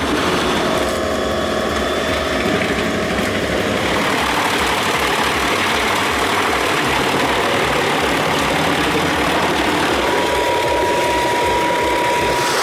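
Heavy machinery engine of a wood-chipper truck running steadily under a dense mechanical noise. A steady high tone joins about ten seconds in.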